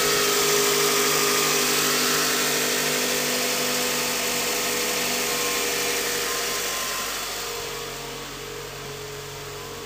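2008 Scion's four-cylinder engine idling on a cold start after sitting for three weeks, running evenly like a little sewing machine; it grows quieter about seven seconds in.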